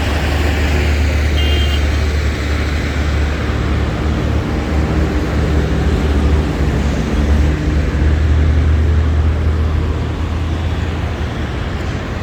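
Street traffic: motor vehicles passing close by with engine and tyre noise over a steady low rumble.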